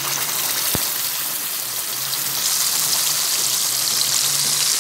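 Wet ground masala paste poured into hot oil in a pan, sizzling and frying with a dense hiss that grows stronger about halfway through. A single light tap sounds about a second in.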